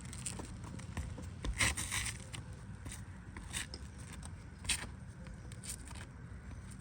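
A few short scrapes and scuffs on an asphalt shingle roof, the loudest pair about a second and a half in, over a steady low rumble of wind on the microphone.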